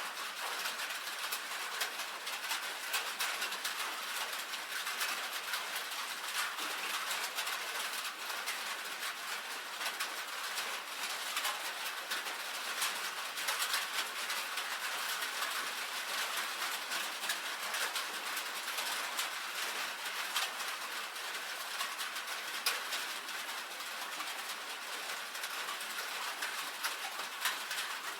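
Steady rain pattering on a tin roof: a dense, even hiss of drops with many sharp individual ticks scattered throughout.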